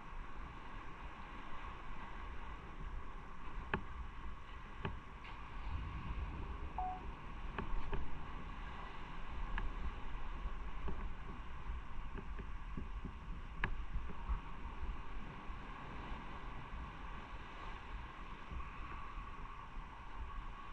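Motorcycle on the move: a steady low rumble of engine and road noise with wind, and a few faint clicks.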